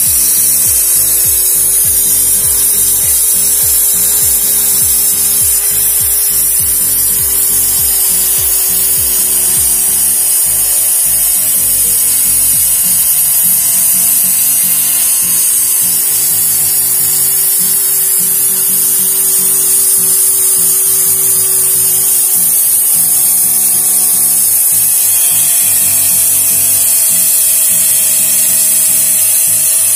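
RYU mini die grinder running at speed setting 3 and cutting through the metal body of a die-cast Hot Wheels car: a loud, continuous high-pitched hiss over the motor's steady tone, which wavers slightly in pitch as the load changes.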